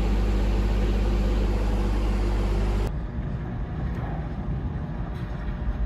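A vehicle engine running steadily, cut off abruptly about three seconds in and followed by a quieter, rougher rumble.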